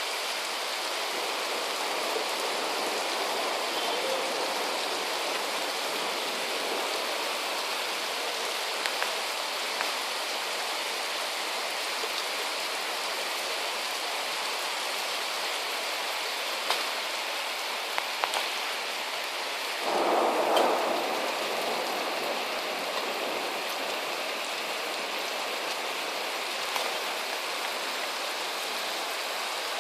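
Heavy rain falling steadily, a dense hiss with scattered sharp drop taps, and a brief louder, lower swell about two-thirds of the way through.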